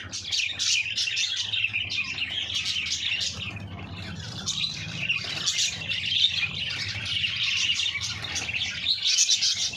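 Many caged lovebirds chattering and chirping at once, a dense, continuous twittering, over a faint low hum.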